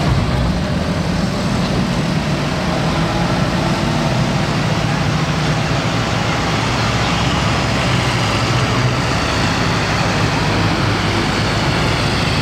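Tractor engines running steadily, with the low engine note and road noise holding at an even level throughout.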